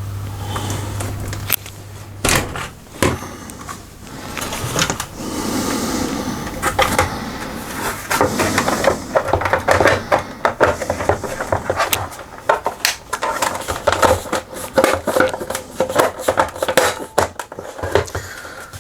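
Plastic laminator casing being handled and fitted back together: a long run of irregular clicks and knocks, busier in the second half, as the top cover snaps into place. A low hum stops about a second and a half in.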